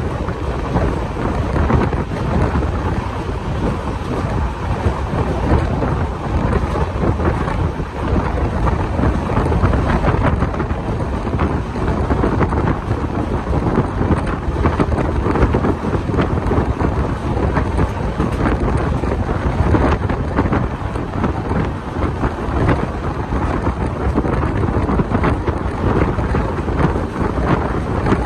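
Wind buffeting the microphone over the steady rumble of a moving passenger train's wheels on the rails, heard from the side of the coach.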